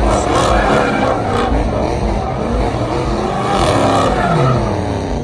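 Car engine revving hard, its pitch rising and falling, over the rushing noise of spinning tyres, as in a burnout.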